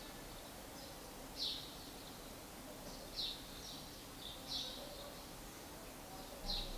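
Faint, short high-pitched bird chirps, about half a dozen scattered irregularly through, over a low steady background hiss.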